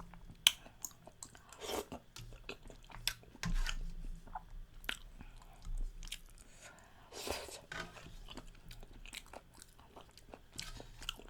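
Close-miked chewing of a mouthful of food, lips smacking, with many sharp wet mouth clicks and a couple of longer wet noisier sounds, near 2 and 7 seconds in.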